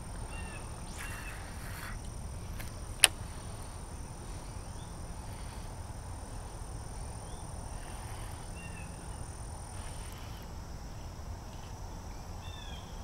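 Outdoor ambience: a bird chirping briefly now and then over a steady low rumble, with a thin high steady tone that stops about ten seconds in. One sharp click about three seconds in.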